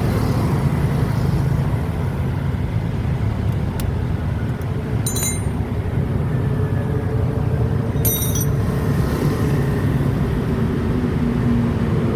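A motor vehicle's engine running steadily, with two brief metallic jingles about five and eight seconds in.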